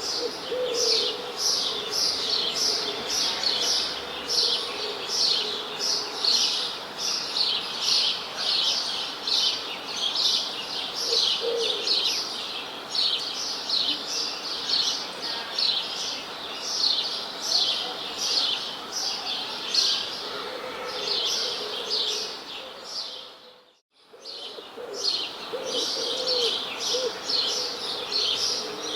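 Dense chorus of small birds chirping, with quick high chirps repeating several times a second and now and then a low cooing note like a dove's. The chorus briefly fades out and comes back in about three quarters of the way through.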